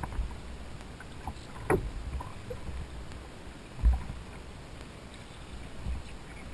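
Kayak on open water: dull low thumps about every two seconds against the hull, the loudest near the middle, with a few light knocks and clicks over a faint wash of water.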